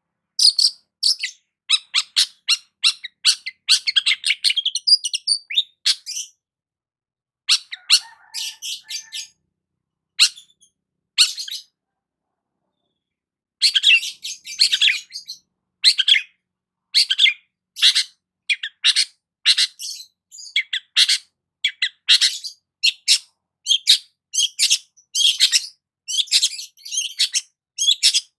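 Long-tailed shrike (cendet) singing: quick runs of short, sharp, scratchy chirps, in bursts broken by two silent pauses, one about seven seconds in and a longer one around twelve to thirteen seconds in.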